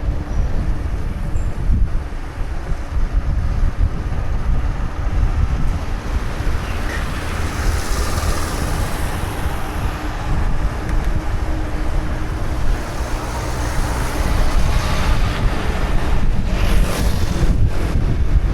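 Wind buffeting the microphone of a camera riding along on a moving bicycle, a loud, steady low rumble. Brief hissing swells come in around the middle and again near the end.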